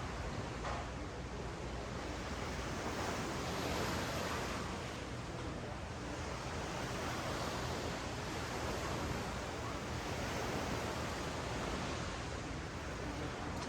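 Ocean surf washing up a sandy beach: a steady rush that swells about four seconds in and again about ten seconds in.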